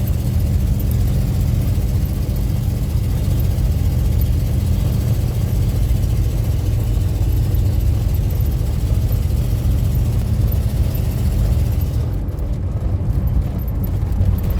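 Car cabin noise while driving at steady speed: a constant low rumble of engine and tyres on the road, with a few steady low hums. The higher hiss drops away about three-quarters of the way through.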